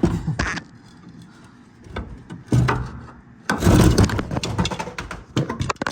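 Heavy metal clunks and scraping as pry bars lever a seized torsilastic suspension assembly out from under a vintage Flxible bus, in several irregular loud bursts. The loudest comes about three and a half seconds in, with sharp clicks near the end.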